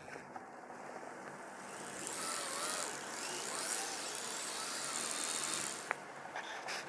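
Kyosho Blizzard SR radio-controlled snowcat running through snow: its Titan 380 electric motors whine, with the pitch wavering as the speed changes, over the hiss of its heavy metal tracks. The sound grows louder about two seconds in and drops back near the end.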